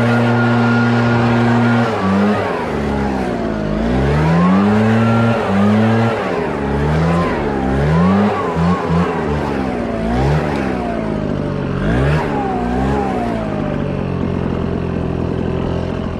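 Small gasoline engine running at a steady pitch, then repeatedly revving down and back up about once a second, then settling to a steady pitch for the last couple of seconds.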